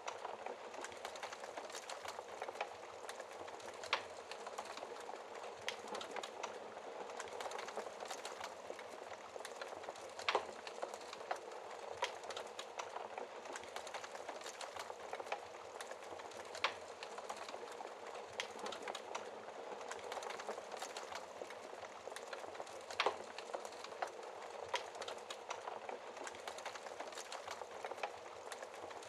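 Wood fire crackling in a fireplace: a steady hiss of burning with scattered sharp pops and snaps, a few louder ones standing out.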